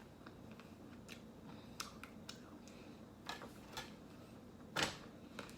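Close-miked eating of a chocolate-coated ice cream bar: scattered small bites, crunches and mouth clicks, the loudest about five seconds in.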